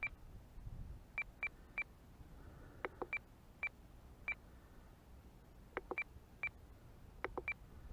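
FrSky Taranis radio transmitter giving short high beeps, each with a small click, as its buttons are pressed in quick irregular groups while the aileron rate setting is stepped down in its menu.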